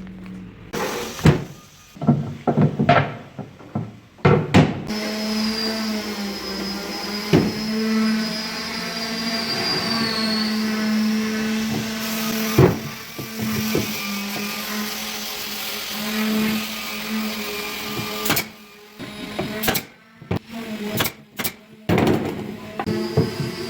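An electric power tool motor running steadily for much of the time, with a high whine that dips about halfway through. Short sharp knocks and clicks come before it starts and again after it stops.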